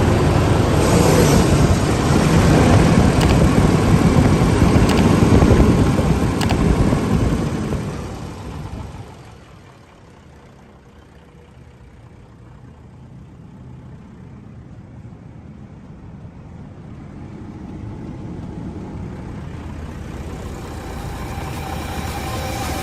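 Mitsubishi Fuso Super Great tractor head's 8M20 V8 diesel running loudly, then falling away to a low rumble about eight seconds in and slowly growing louder again.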